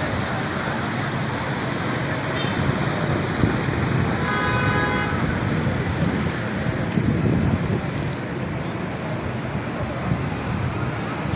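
Busy street traffic, with engines running and the steady rumble of a road. A vehicle horn sounds once, briefly, about four seconds in.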